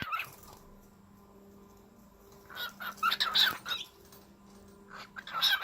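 Pet cockatiel flapping and chirping in short bursts, first about two and a half seconds in and again near the end.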